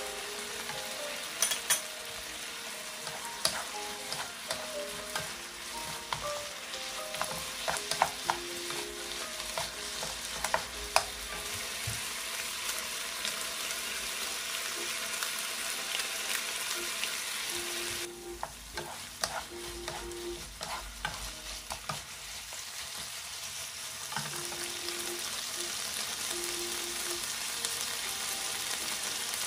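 Pork strips and sliced green pepper, onion and bamboo shoots sizzling in a nonstick frying pan as they are stirred and tossed with a wooden spatula and spoon, with sharp clicks and scrapes of the utensils against the pan in the first half. About two-thirds of the way through the sizzle drops away for several seconds, then picks up again.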